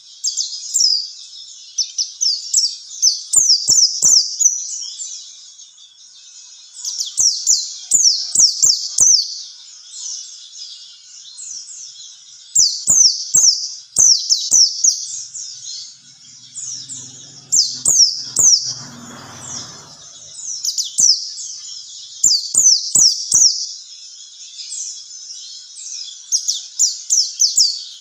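White-eye (pleci) singing: bursts of rapid, high-pitched, down-slurred chirps in phrases a few seconds long, repeated with short pauses between. A faint low rumble is heard briefly about two-thirds of the way through.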